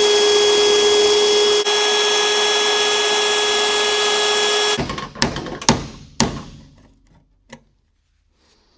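A power drill runs at a steady speed for about five seconds, boring out spot welds in the sheet-metal body panels, then stops. A few sharp metallic knocks and clicks follow.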